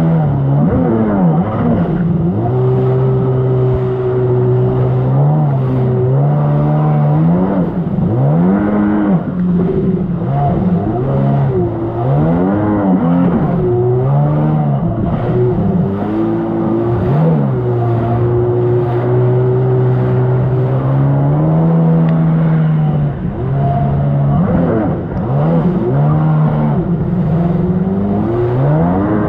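1999 Sea-Doo XPL's two-stroke engine running under way, holding a steady pitch for a few seconds at a time and in between rising and falling quickly again and again as the throttle comes on and off.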